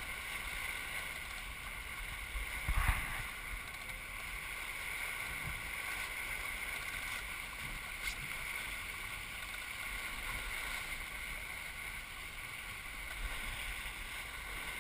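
Water rushing and gurgling along the hull of a Melges 24 sailboat under sail, with wind rumbling on the microphone. A brief louder bump about three seconds in.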